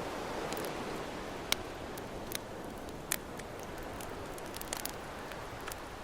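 Campfire crackling, with sharp pops scattered through it, the loudest about a second and a half in, over the steady wash of ocean waves.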